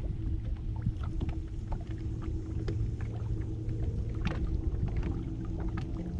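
A boat's motor humming steadily, with scattered sharp clicks and knocks over it.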